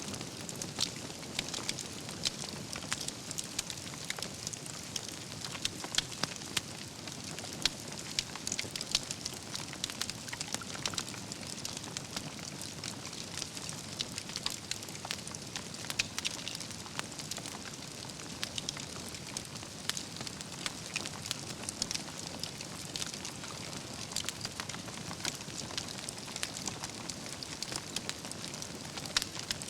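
Wood campfire burning: a steady soft hiss and rumble of flames with constant fine crackling and frequent sharper pops from the logs.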